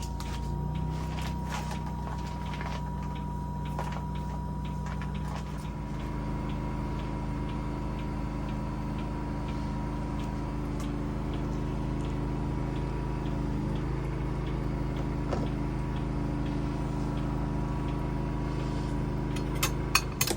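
Steady low mechanical hum whose pitch shifts about five seconds in, with faint regular ticking over the second half.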